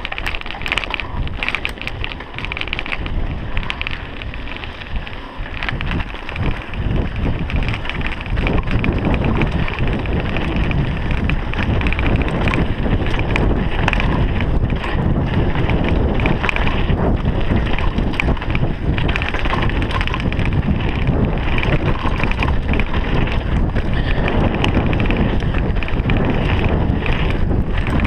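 Wind buffeting the microphone over the rattle and clatter of a mountain bike descending a rough downhill trail, louder from about eight seconds in.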